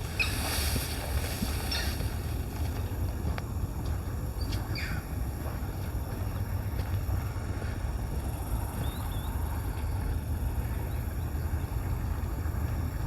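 Wind buffeting the microphone, a steady low rumble, with a brief rustle in the first two seconds and a few short high chirps near the middle.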